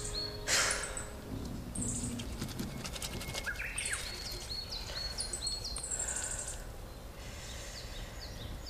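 Small birds chirping: short, high notes that drop quickly in pitch, coming in little clusters over a steady outdoor hiss. A brief rush of noise about half a second in.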